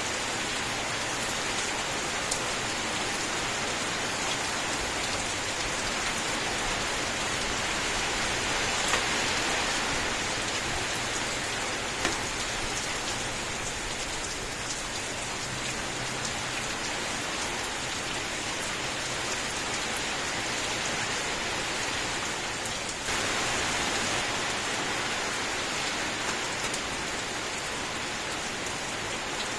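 Steady rain falling, an even hiss of drops with a few sharper single drop hits. The hiss changes suddenly in tone about two-thirds of the way through.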